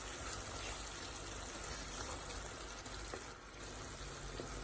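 Boneless chicken thigh pieces sizzling steadily in oil and onion-tomato masala as they are fried in a pan; the chicken is nearly done, with the oil about to rise to the surface.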